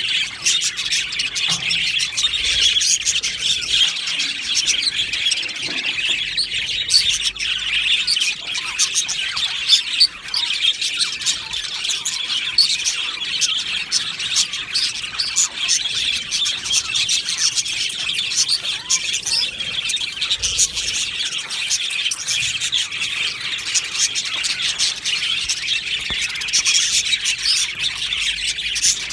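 A colony of budgerigars chattering and chirping, many birds calling at once in a dense, unbroken high chatter.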